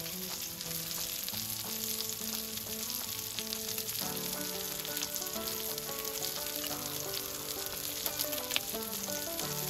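Horumon (pork offal) sizzling in oil in an iron frying pan over a gas camp stove: a steady crackling hiss.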